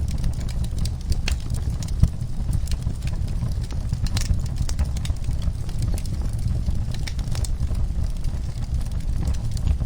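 Wood fire in a fireplace crackling: scattered sharp pops and snaps over a steady low rumble of the flames, with one louder pop about two seconds in.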